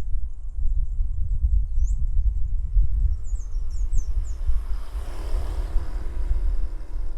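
Wind buffeting the microphone as a gusty low rumble over rice-field ambience. A few quick, high bird chirps come in the middle, and a rushing sound swells and fades about five seconds in.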